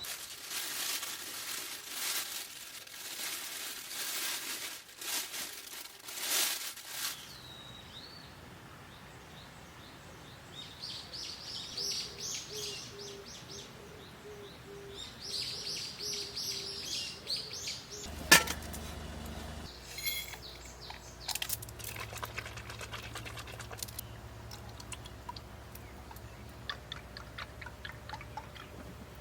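Small birds chirping in quick runs of high notes, over rustling handling noises. A sharp click comes about two-thirds of the way in, followed by a faint steady low hum.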